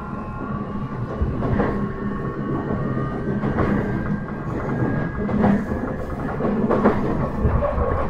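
Ride sound inside a JR E131-1000 series electric train: the motor whine sits in several steady tones over the rumble of the wheels on the track, with irregular clicks and knocks from the rail joints.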